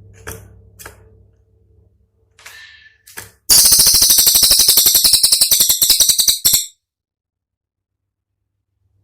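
Cililin songbird giving a loud, rapid, high-pitched rattling trill of sharp notes, about ten a second, for about three seconds before it stops abruptly. This is the fast 'tembakan' burst that bird-keepers use as masteran material. A few faint clicks and short chirps come before it.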